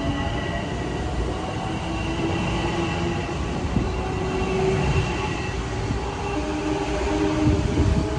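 Passenger train running past close by: a steady rumble of wheels on rail with a faint steady whine over it, loudest near the end.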